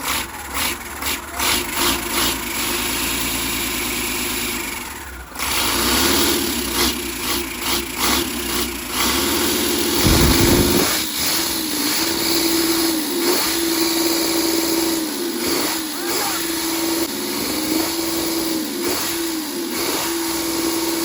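Rebuilt truck diesel engine cranking in rhythmic pulses, then running steadily after a brief break about five seconds in.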